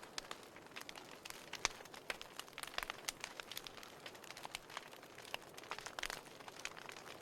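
Burning firewood crackling: irregular sharp pops and snaps, some louder than others, over a soft steady hiss.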